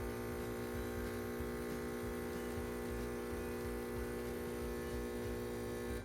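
Breville Barista Express espresso machine's vibratory pump humming steadily as it pushes water through the puck while the shot is being pulled, then stopping abruptly as the shot ends.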